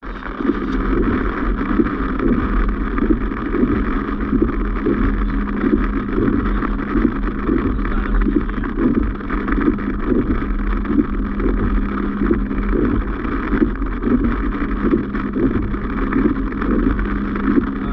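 Steady driving noise heard from inside a moving vehicle: engine and road rumble with a constant low hum.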